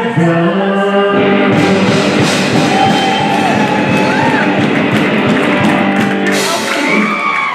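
Rock song with singing: a voice holds long notes over guitar and a full, steady band sound.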